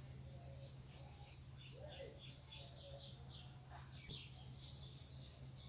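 Faint bird chirps, short and repeated, over a steady low hum.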